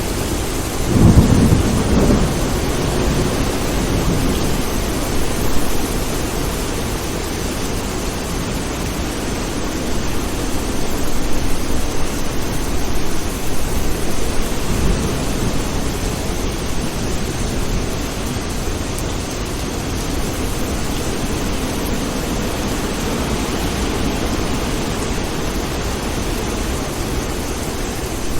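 Thunderstorm: steady rain hiss throughout, with a loud low thunder rumble about a second in, a shorter one around five seconds, and more rolling thunder in the middle.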